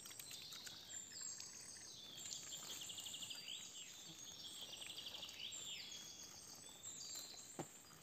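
Several songbirds singing in a forest: overlapping high, rapid trills and chirping phrases, fullest in the middle seconds, over a faint background hiss.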